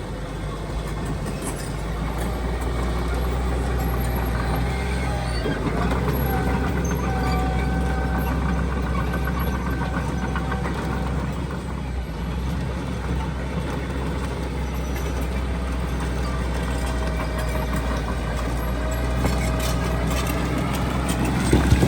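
Heavy diesel earthmoving machinery running steadily with a deep engine rumble and a faint whine that drifts up and down in pitch. A louder burst of noise comes at the very end.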